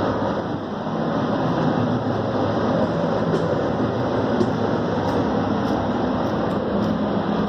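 Large outdoor air-conditioning unit running: a steady, loud rushing drone with a low hum and a few faint ticks, with wind on the microphone.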